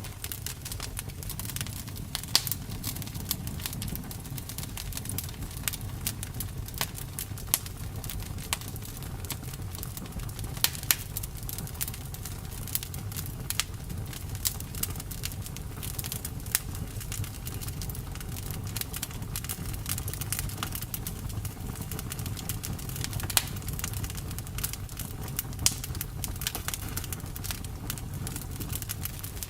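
Campfire burning, with irregular sharp crackles and pops from the burning wood over a steady low rumble of the flames.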